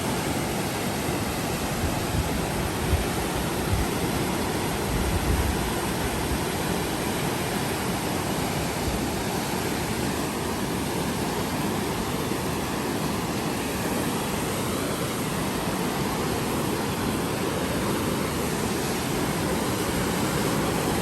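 Swollen, fast-flowing river after heavy rain, a steady rush of floodwater, with a few brief low bumps about two to five seconds in.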